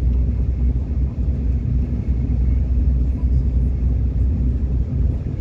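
Subway train running along the track, a steady low rumble heard from inside the car.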